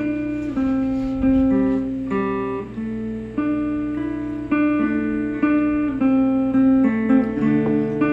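Guitar music without singing: an instrumental intro, with chords and notes changing about every half second to a second.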